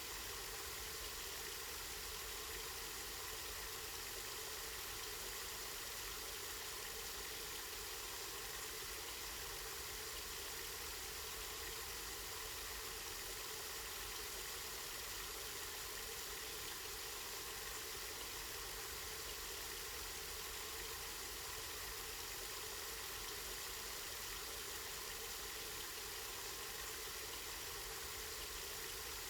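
Spring water running and splashing in a steady, unbroken stream.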